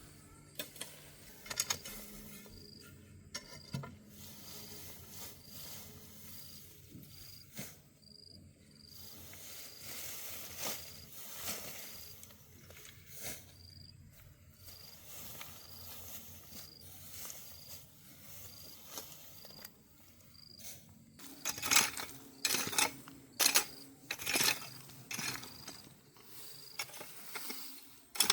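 Scattered clinks and taps of hand work with tools and small metal pieces, busier and louder in the last several seconds. A faint high chirp repeats evenly, about three times every two seconds, through most of it.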